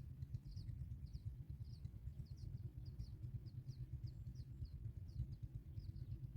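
A bird's short, high, slightly falling chirps repeated about three times a second, over a steady low rumble.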